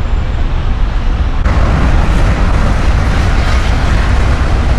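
Road traffic noise with a heavy low rumble; it turns suddenly louder and hissier about a second and a half in.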